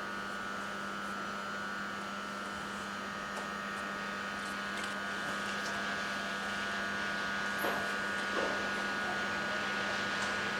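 Steady electric hum and whine of an approaching E652 electric freight locomotive, growing slowly louder.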